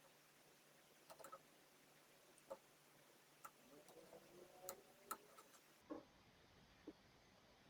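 Near silence with a handful of faint, short clicks and light taps scattered through it, irregular and not in any rhythm.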